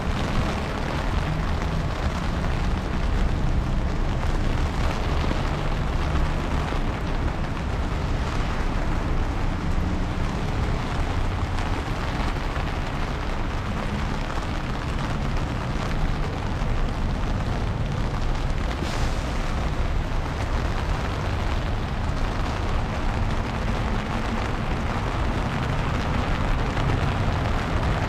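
Heavy freezing rain falling steadily: a dense hiss over a strong, continuous low rumble.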